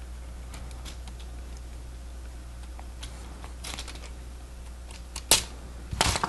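Lego Technic plastic pieces being handled and snapped together: scattered light clicks, a sharp louder click about five seconds in, and a few more near the end.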